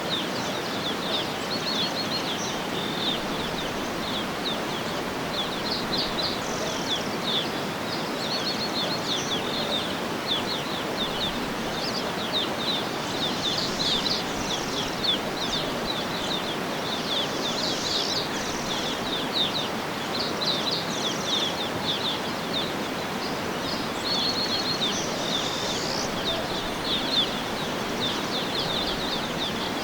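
Many small birds chirping and trilling in quick, high-pitched calls over a steady, even outdoor background rush.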